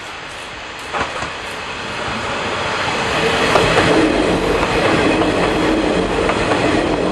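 Eizan Electric Railway electric train approaching and passing close by, its running noise growing louder until about three seconds in and then staying loud as the cars go past, with wheels clattering over the rails. A single sharp knock comes about a second in.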